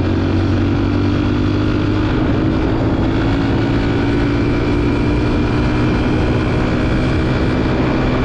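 A 125 cc dirt bike's engine running under way at a fairly steady pitch, over a constant rushing noise.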